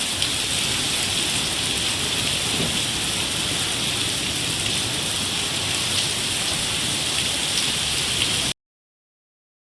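Heavy rain pouring steadily as an even hiss, then cut off abruptly about a second before the end.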